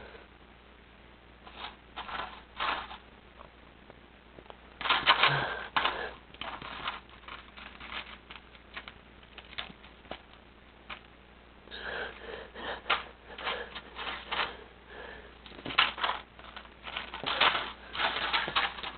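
A bag of mints rustling and crinkling in irregular bursts as a cat paws and plays with it, busiest about five seconds in and again through the second half.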